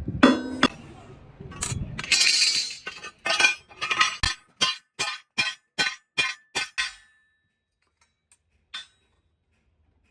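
Metal being struck with a hammer: a run of about a dozen sharp, ringing blows at about three a second that stop about seven seconds in, after a short hissing burst.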